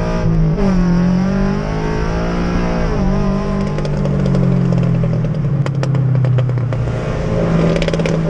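Subaru BRZ's flat-four engine pulling steadily, heard from inside the cabin. Its pitch dips briefly about a second in and again about three seconds in, and a scatter of sharp clicks comes through around the sixth second and near the end.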